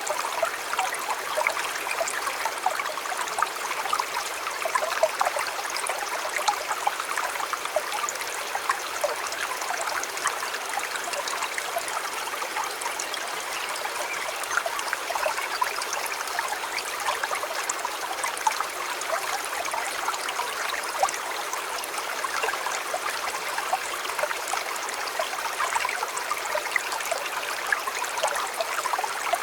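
River water flowing steadily, a continuous babbling rush dotted with many small splashes and trickles.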